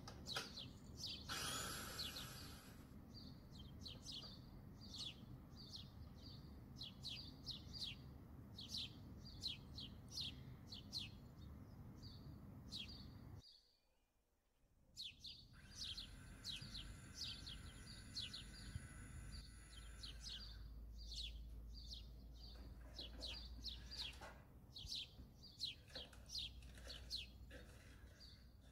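Small birds chirping continuously in rapid short falling notes, faint, over a low hum; the sound cuts out briefly about halfway through.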